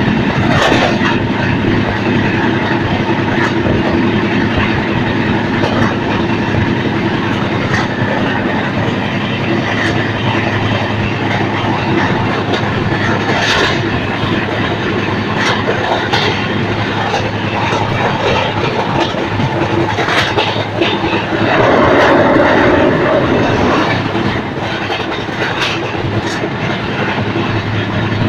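Shan-e-Punjab Express passenger train running on the rails: a steady rumble with the clack of wheels over rail joints, and a louder stretch with a brief tone about three-quarters of the way through.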